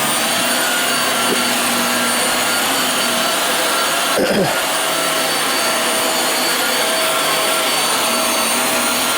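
Hoover WindTunnel Air bagless upright vacuum cleaner running on carpet: a steady motor whir and airflow hiss with a few constant whine tones, briefly disturbed about four seconds in.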